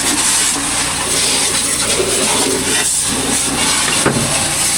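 High-pressure water jet spraying onto a tractor during a wash, a loud steady hiss, over a low steady hum.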